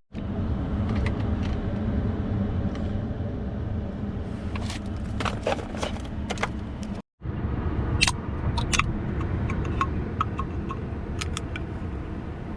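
Steady vehicle rumble inside a truck cab on the move, with scattered light clicks and rattles. It cuts out abruptly for a moment about seven seconds in.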